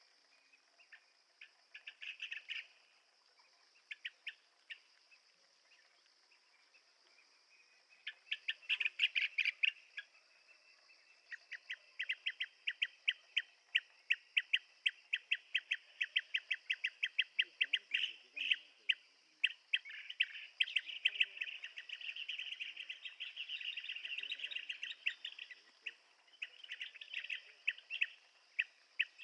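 Blue-tailed bee-eater calling: short notes in scattered bursts at first, then from about ten seconds in a long, fast, nearly unbroken run of repeated notes.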